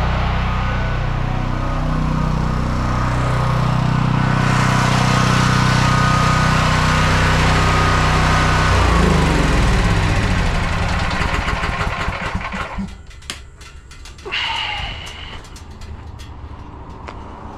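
Diesel engine running steadily, its pitch shifting about nine seconds in, then dying away and stopping about twelve seconds in. A brief high squeal that falls in pitch follows.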